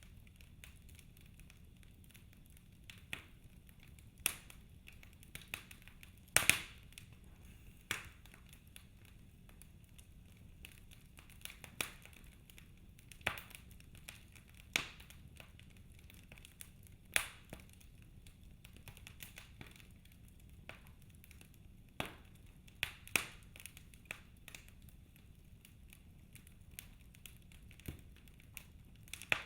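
Wood fire crackling in a fireplace: irregular sharp pops and snaps over a faint steady hiss, with the loudest crack about six seconds in and a quick double crack a little past twenty seconds.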